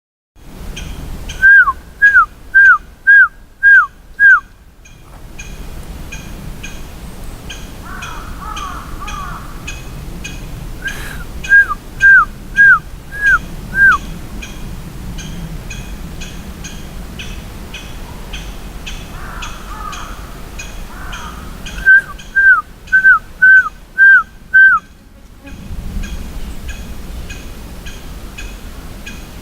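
Whistling exchange with a small bird: three runs of five or six loud, short, downward-sliding whistled notes, with a softer warbling bird call answering in between. Faint, regular ticking runs underneath.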